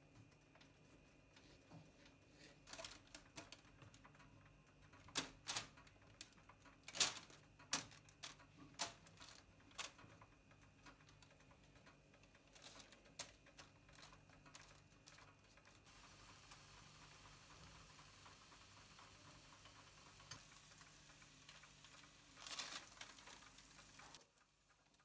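Scattered light clicks and knocks of dishes and utensils being handled in a kitchen, strongest a few seconds in, then a steady hiss for several seconds that swells briefly near the end.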